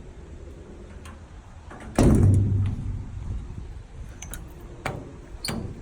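A loud bang about two seconds in, ringing briefly, then a few lighter clicks near the end: a metal equipment compartment door on the truck being shut and latched.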